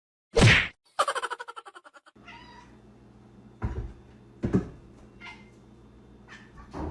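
A domestic cat meowing: a short loud burst, then a rapidly pulsing trilled call, then a few short meows over a steady low hum.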